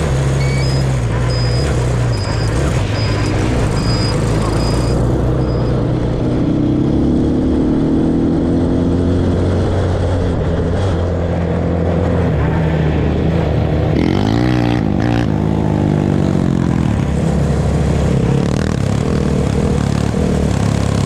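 Off-road vehicle engine running steadily during a ride, with the engine speed rising and falling briefly a little past the middle.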